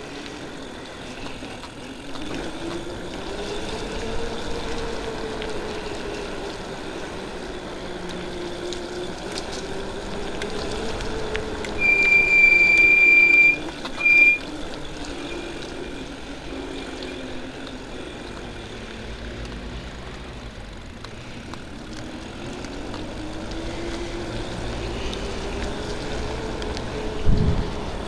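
Motorcycle engine running on the move, its note rising and falling as it speeds up and slows down, over steady wind and road noise. About twelve seconds in, a loud high-pitched beep sounds for a second and a half, then once more briefly.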